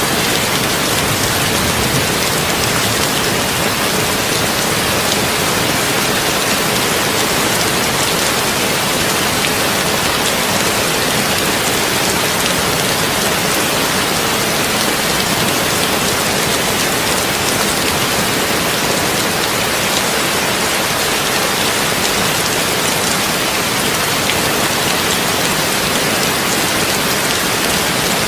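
Heavy rain drumming on a tin roof: a steady, dense hiss of drops that does not change.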